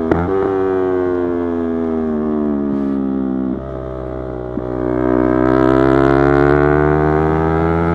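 Yamaha YZF-R3 parallel-twin engine under way. There is a quick rev blip near the start, then the engine note slowly falls as the bike slows. About three and a half seconds in it dips, and from about five seconds the revs climb steadily and louder as the bike accelerates.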